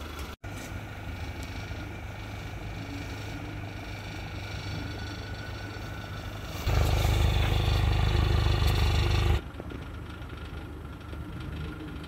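Renault Sandero Stepway running at idle with an extraneous ringing noise that the owner takes for the exhaust pipe, most likely a broken-off pipe mount. About seven seconds in the sound gets much louder for almost three seconds, then drops back.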